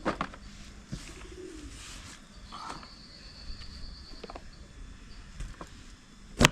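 A bird gives one short, low call about a second in, amid faint scattered clicks, followed by a single sharp knock near the end.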